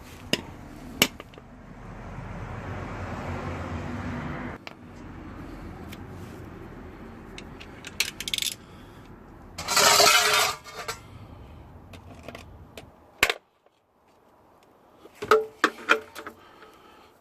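Metal tools and parts clinking and clattering in scattered knocks. A steady rumble runs through the first few seconds, and a loud burst of noise lasting about a second comes near the middle.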